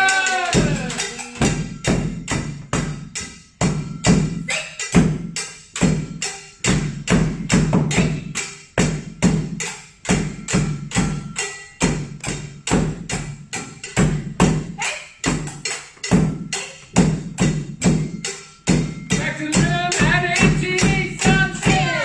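Fast drumming with sticks on household pots and buckets standing in for taiko: dense, steady strikes, several a second, with a low booming note under sharper higher hits. A voice calls out over the drumming at the start and again near the end.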